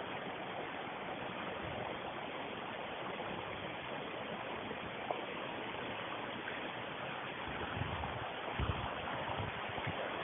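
Steady rushing noise, with a few low rumbles about eight seconds in.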